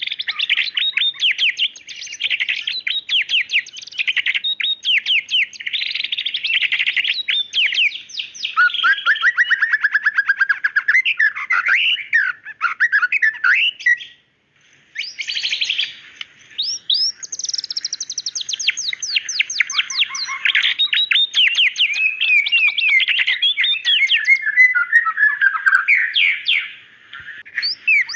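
White-rumped shama singing vigorously: a fast, unbroken stream of sharp whistles, rapid trills and chattering phrases, with a short pause about halfway through.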